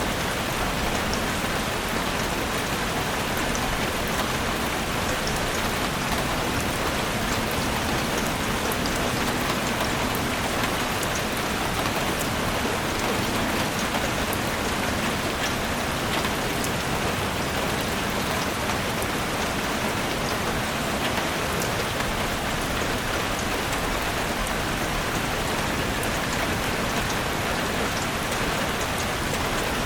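Steady rain falling, an even hiss of rainfall with many small, sharp drop hits scattered through it.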